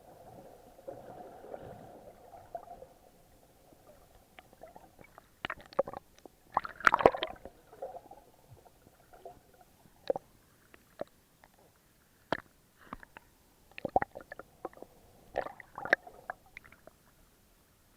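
Water sloshing and gurgling around the camera, with irregular sharp clicks and knocks. A denser cluster comes about seven seconds in, and the sounds die away near the end.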